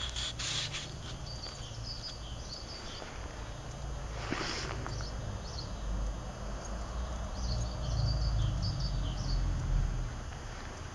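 Small birds chirping in short, scattered high calls over a steady low rumble that swells about eight seconds in, with a brief rustling noise about four seconds in.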